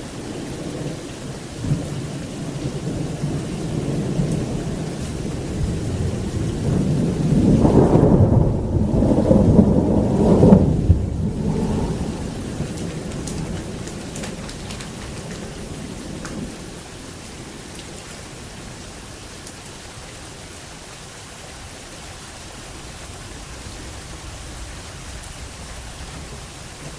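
Heavy rain falling steadily while a long peal of thunder builds, peaks in cracks and a deep rumble about ten seconds in, then rolls away, leaving the rain.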